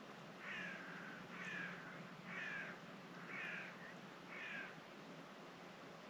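A bird calls five times, about once a second, starting about half a second in. Each call is a short note falling in pitch, over a faint steady wash of sea waves.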